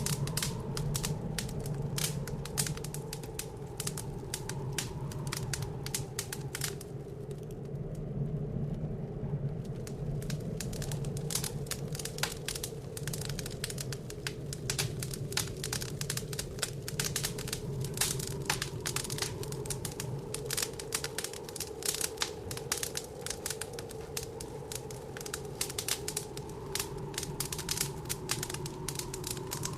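Wood fire in a fireplace crackling, with frequent sharp pops, over a steady, slowly wavering low howl of blizzard wind.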